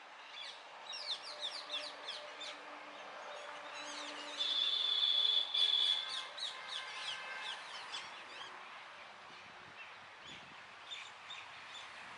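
Small birds chirping: rapid runs of quick falling chirps, broken about four and a half seconds in by a held high whistle-like note that is the loudest part, then fainter scattered chirps.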